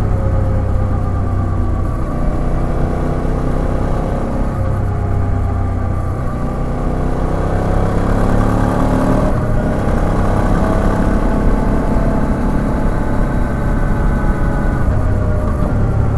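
Suzuki V-Strom 650XT's V-twin engine running on the move, its pitch rising and falling with the throttle, with a brief dip about nine seconds in.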